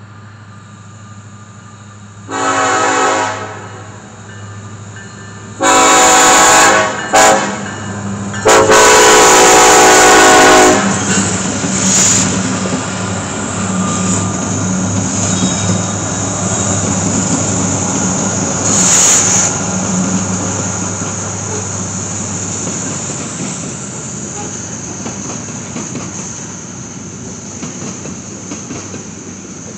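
Arkansas & Missouri EMD SD70ACe diesel locomotive horn sounding four blasts in the grade-crossing pattern, long, long, short, long, the last blast the longest, as the locomotives pass close by with their engines running. The engine sound then gives way to freight cars rolling past with a clickety-clack over the rail joints.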